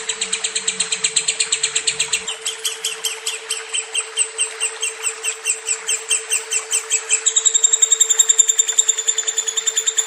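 Lovebird giving a long, fast run of repeated high chirps, several a second without a break, its pace tightening again about seven seconds in. A steady low hum runs under it.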